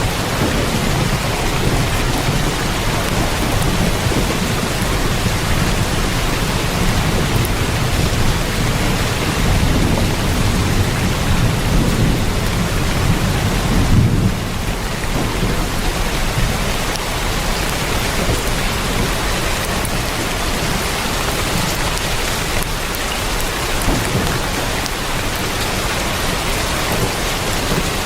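Heavy rain falling on a tin roof, an even hiss, with a low roll of thunder that builds to a peak about halfway through and then dies away.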